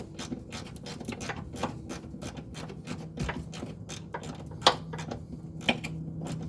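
Ratchet wrench with a small 10 mm socket clicking in quick, irregular strokes while loosening a bolt, with two sharper clacks in the second half. A faint steady low hum underneath.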